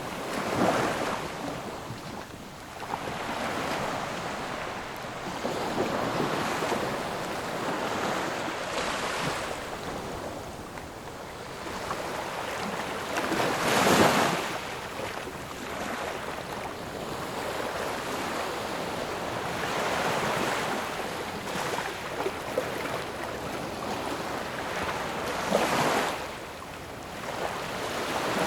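Ocean waves breaking and washing on a shore: a steady rushing surf that swells and falls, with stronger waves crashing about a second in, around the middle and near the end.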